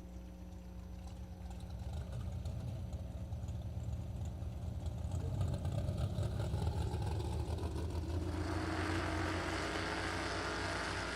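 Drag race car engines idling at the starting line, growing louder, then fuller and harsher from about eight seconds in.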